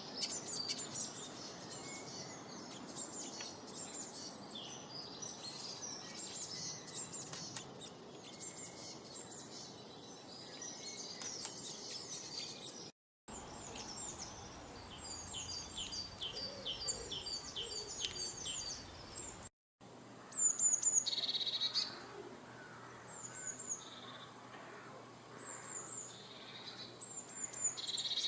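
Several songbirds singing and chirping, a dense chorus of quick high chirps and trills. Two abrupt cuts to different recordings come about 13 and 19 seconds in; the last part has a louder bird repeating a short high call every second or two.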